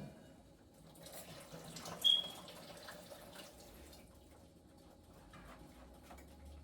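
Liquid running or pouring for a few seconds, with one short, sharp ring about two seconds in.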